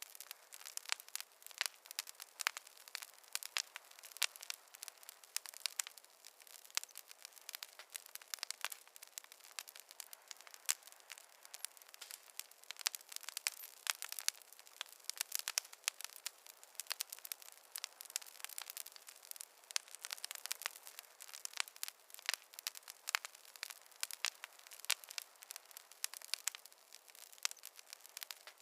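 Wood fire crackling: a steady hiss with many quick, irregular pops and snaps.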